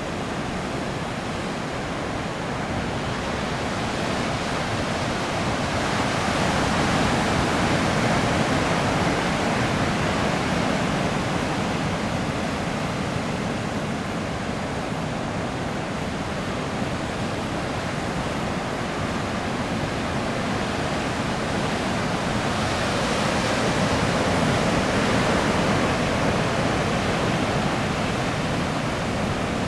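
Heavy typhoon swell breaking on a reef: a constant roar of surf that swells louder twice, about six seconds in and again past twenty seconds, as big waves break.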